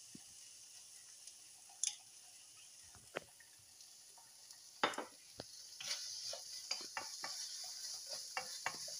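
Chopped shallots, garlic and chilli sizzling in a nonstick wok while a wooden spatula stirs and scrapes the pan. A few single scrapes and knocks come in the first half; then the sizzling grows louder and the stirring strokes come quickly near the end.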